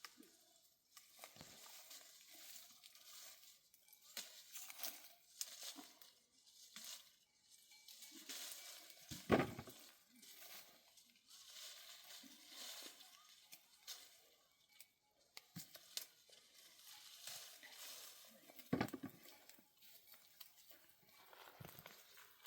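Faint, irregular rustling and crackling, with two louder knocks, one about nine seconds in and one near nineteen seconds.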